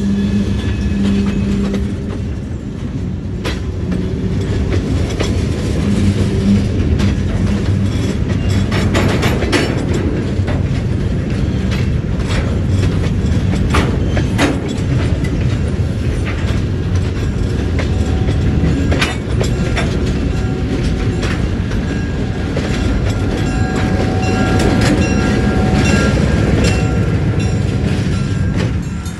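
Small diesel switcher locomotive and a cut of open-top freight cars rolling slowly past: a steady low rumble with the steel wheels clacking irregularly over rail joints.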